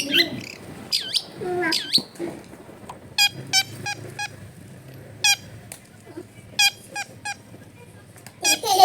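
Long-tailed shrike (cendet) calling: a few sweeping notes, then a string of short, sharp, harsh notes at uneven intervals, with the loudest call near the end.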